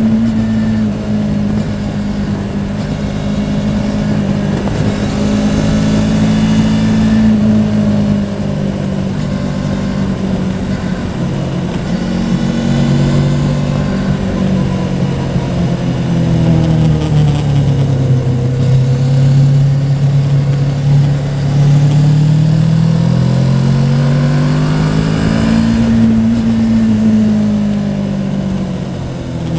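Yamaha Tracer 700's parallel-twin engine running under way, its pitch falling and rising again as the rider eases off and opens the throttle, lowest about two-thirds of the way through.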